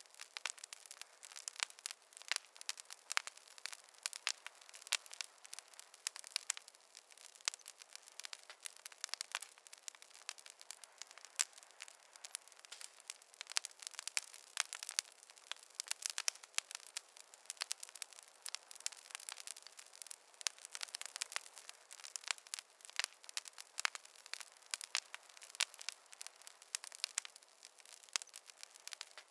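Campfire crackling: a continuous, irregular stream of small sharp pops and snaps over a faint hiss, thin and without any low rumble.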